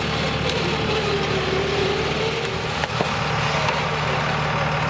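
Vehicle engine running steadily, with a wavering whine over it and a few faint clicks.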